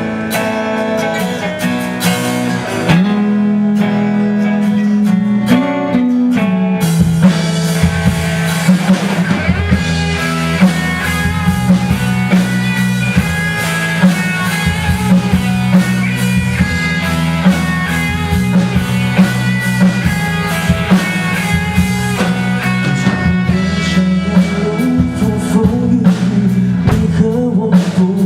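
Live rock band with guitar, bass and drums playing the instrumental intro of a song, with no singing yet. The sound fills out with steady drum strokes about seven seconds in.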